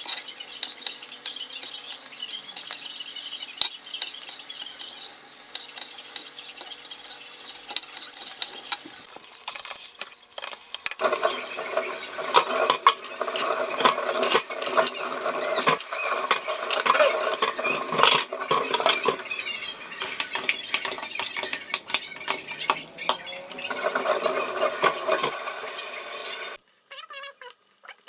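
Food sizzling in a pan while it is stirred, with utensils clinking against the cookware. From about eleven seconds in it gets busier, with many sharp clicks and scrapes, and it stops shortly before the end.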